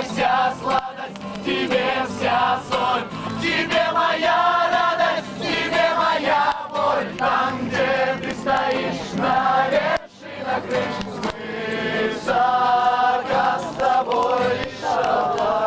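Music with a choir of voices singing, with a short break about ten seconds in.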